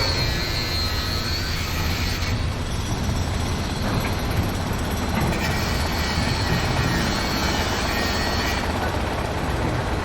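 Heavy construction machinery running: a steady low engine rumble, with a faint high whine that fades out after a couple of seconds and returns midway.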